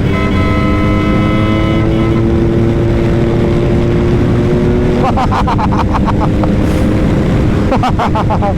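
BMW R 1250 GS Adventure's boxer twin engine running under steady acceleration, its pitch slowly rising for about five seconds, then dropping and settling. A constant low rumble of wind and road noise runs underneath.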